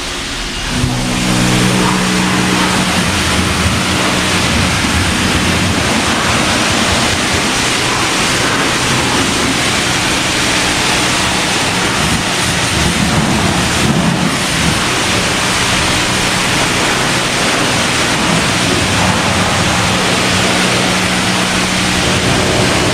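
A motor hums steadily under a loud, continuous rushing hiss, starting about a second in.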